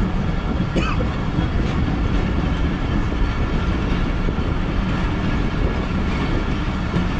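Passenger train running along the track, heard from on board: a steady rumble of wheels and coaches.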